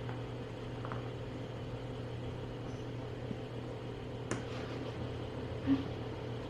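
Steady low electrical hum of room noise, with a couple of faint clicks about four seconds in and a brief short squeak shortly before the end.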